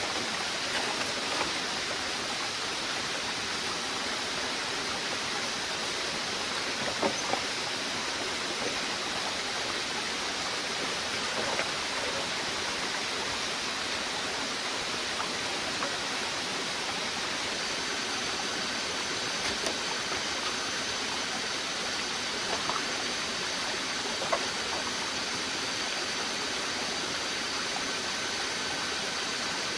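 Steady rushing noise of running water, like a stream or small waterfall, with a few faint knocks. Thin, high, steady tones join in a little past halfway.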